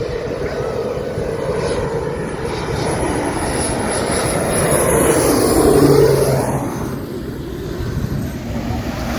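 Jet airliner passing low overhead on its landing approach. A high turbine whine and engine rush build to a peak about six seconds in, drop in pitch as the plane passes, then fade. Surf keeps washing underneath.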